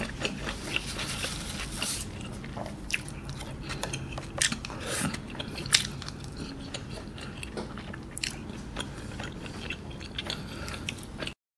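Close-up mouth sounds of someone chewing tteokbokki, soft rice cakes and fish cake in spicy sauce: wet smacking and squelching with many small clicks. It cuts off to dead silence just before the end.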